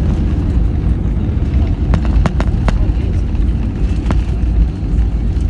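Steady low rumble of an airplane landing, with a few sharp clicks about two seconds in and one near four seconds.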